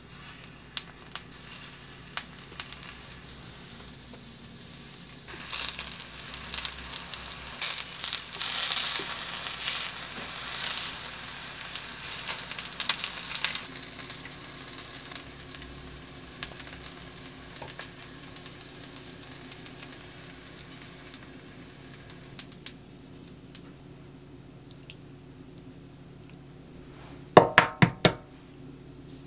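Eggplant slices frying in olive oil in a nonstick pan, sizzling, loudest in the first half and then settling to a quieter sizzle. Near the end there are four quick, sharp knocks.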